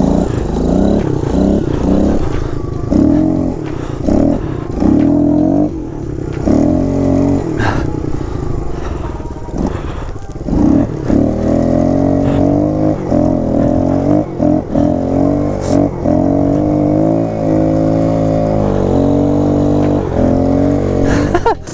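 Kawasaki KLX110 pit bike's small single-cylinder four-stroke engine being ridden: revved in short repeated bursts for the first ten seconds or so, then held at a steadier speed with gentle rises and falls in pitch.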